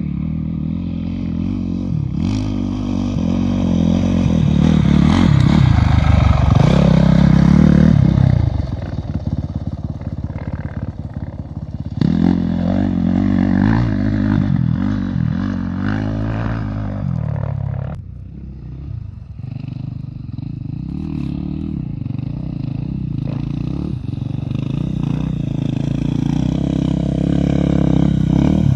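An engine running, its pitch rising and falling, louder about a third of the way in and quieter again past the middle.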